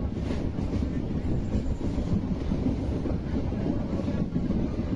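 Passenger train running along the line, heard from aboard: a steady low noise of the running wheels on the rails.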